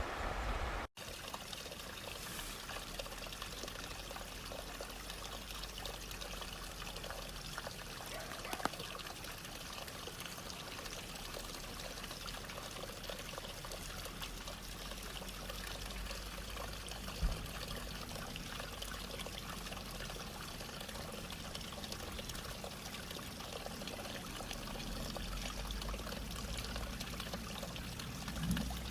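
Running water trickling and splashing steadily, as from a small stream, with a momentary break just under a second in.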